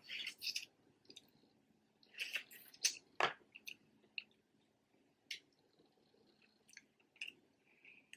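Close-miked chewing and eating of snow crab legs: intermittent wet mouth sounds and short clicks, the sharpest about three seconds in.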